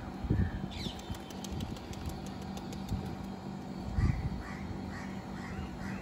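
Birds calling: a run of short harsh calls, about two a second, starting about four seconds in, with fainter high chirps earlier on. A steady low hum runs underneath, with a few low thumps.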